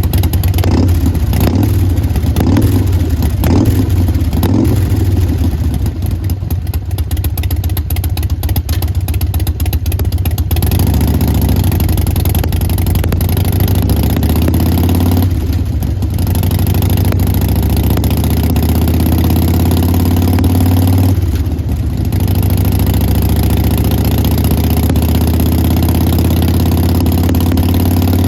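2021 Harley-Davidson Sportster Forty-Eight's 1200 cc air-cooled V-twin through a Vance & Hines Big Radius exhaust, idling with a loping three-beat rhythm. It is blipped several times in the first seconds, then settles about ten seconds in into a steadier run with a few slow revs up and back.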